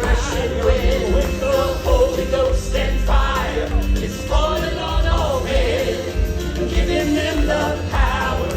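Southern gospel vocal group singing with accompaniment and a strong bass underneath.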